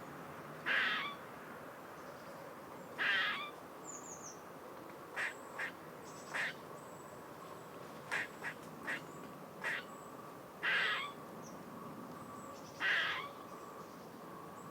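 A duck quacking four times, single rough quacks spaced a few seconds apart, with short sharp bird calls scattered between them over a faint steady outdoor background.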